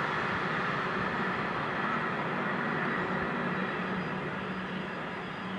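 Wheel and track noise of a passing Amtrak train, fading away as it recedes into the distance. A low steady hum joins about two seconds in.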